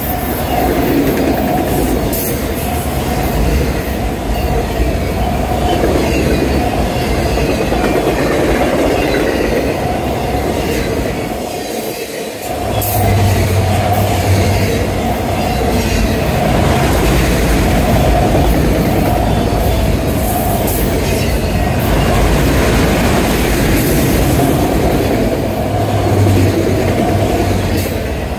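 Freight train of multilevel autorack cars rolling past at close range: steady rumble of steel wheels on rail, with a steady higher tone running through it. The low rumble drops away briefly about twelve seconds in.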